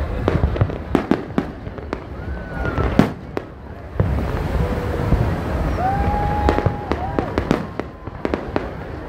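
Aerial fireworks shells bursting overhead: repeated bangs and crackling, with one sharp bang about three seconds in the loudest.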